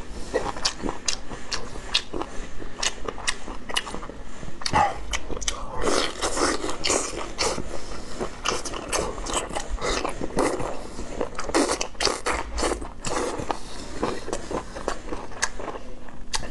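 Close-miked wet chewing and lip smacking as a person eats saucy braised squid tentacles, with many quick, irregular sharp clicks.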